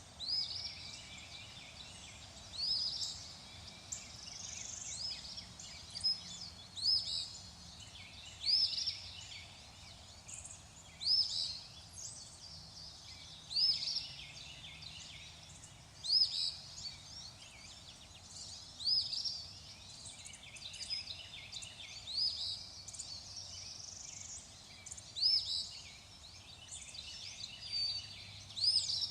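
Birds calling: one bird repeats a short, high, arching call about every two to two and a half seconds, with fainter bird chatter, over a steady background hiss.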